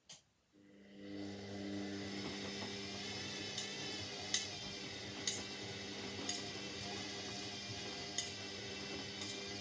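Indesit 71252 washing machine clicking, then starting up: a steady hum with several fixed tones rises within about a second and holds. Sharp light clinks sound about once a second over it.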